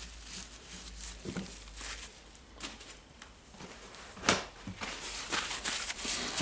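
Hands handling the small greasy metal parts of a disassembled rotary hammer's gearbox: scattered soft clicks and rustling, with one sharper click a little past four seconds in.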